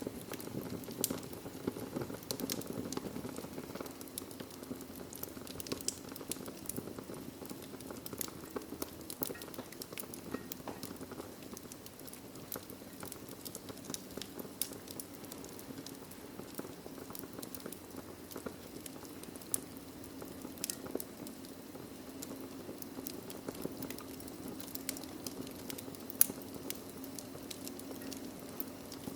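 Wood fire burning in a fireplace: a steady low rumble of flames with irregular crackles and pops, one louder pop near the end.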